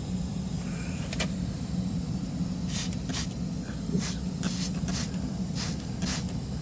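Trigger spray bottle squirted in a quick run of about seven short hisses, wetting a freshly plugged truck tire with soapy water to check the plug for leaks. A steady low hum runs underneath.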